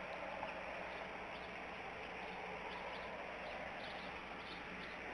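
Steady outdoor background hiss with faint, short, high chirps from birds repeating every second or so.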